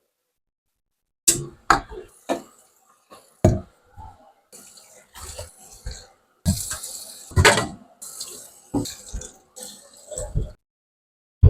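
Objects being handled: a string of sharp knocks and clatters with short stretches of hiss between them, busiest about two-thirds of the way through.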